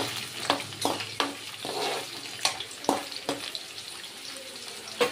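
Chopped onion and green chillies sizzling in oil in a metal kadai, with about seven sharp scrapes and taps of a spatula on the pan as they are stirred.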